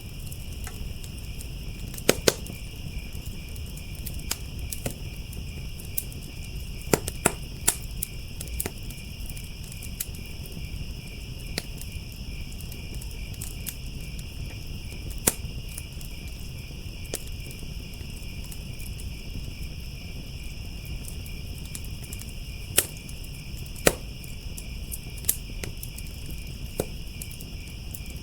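A wood fire crackling, with scattered sharp pops and snaps, the loudest a handful through the stretch. Under it a continuous chorus of crickets chirps steadily.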